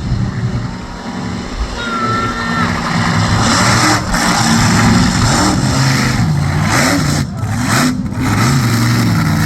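Stunt truck's engine revving hard as it accelerates for a ramp jump, its pitch rising and falling several times and growing louder partway through.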